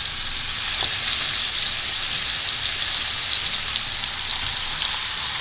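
Stuffed chicken breasts frying in hot oil and butter in a frying pan, a steady sizzle with fine crackles as the meat is seared.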